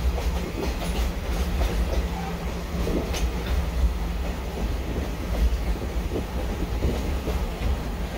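Train running on the rails, with a steady deep rumble and hum and scattered light clicks of the wheels over the track.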